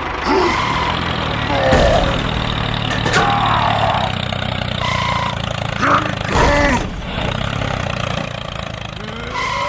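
Engine running steadily with a low hum, as a dubbed sound effect for a toy tractor or bulldozer. Short squeaky voice-like cries and glides break in over it several times.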